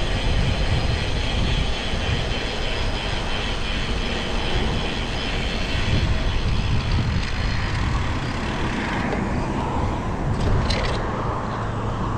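Wind buffeting the microphone and road noise from a road bike riding on city streets. A few sharp clicks come near the end.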